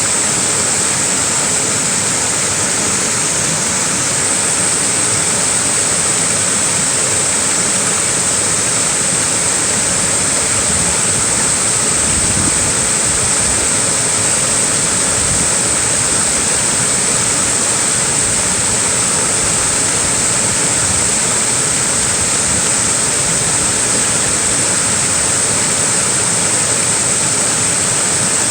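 Small waterfall rushing steadily, an even hiss of falling water that does not change.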